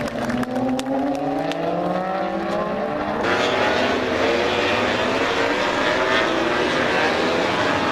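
Several motorcycle engines revving and accelerating together, their pitch rising steadily. About three seconds in the sound jumps abruptly to a fuller, louder blend of engines that keep climbing in pitch.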